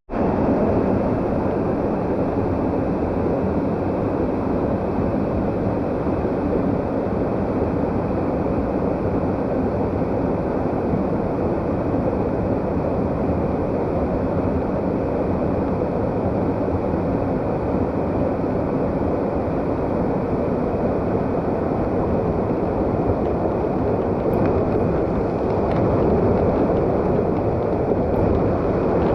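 Steady, loud rushing of falling water from a waterfall, an even noise with no breaks that swells slightly near the end.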